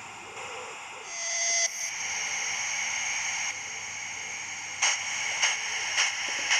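Small live-steam model locomotive hissing steam. From about five seconds in it chuffs as it starts away, at about two beats a second, quickening slightly.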